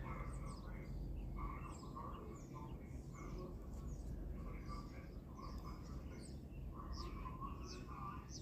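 Birds chirping in short, scattered calls over a low, steady rumble of distant fishing boat engines.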